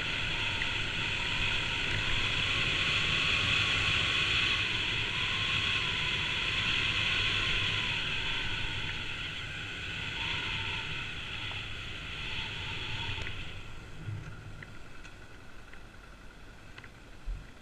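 Kawasaki KLX250S single-cylinder dirt bike engine running during a trail ride, with wind rushing past the microphone. The sound eases off and fades over the last few seconds, and a short thump comes near the end.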